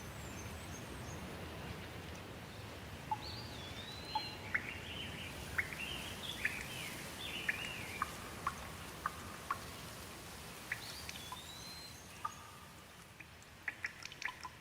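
Steady rain with a songbird calling: a string of short whistled phrases sliding up and down in pitch through the middle. Near the end the rain thins and a quick run of sharp ticks starts.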